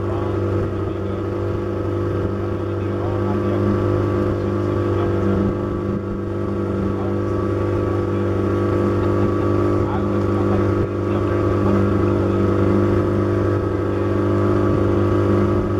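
Boat motor running steadily at a constant pitch, an even engine drone that holds through without changing speed.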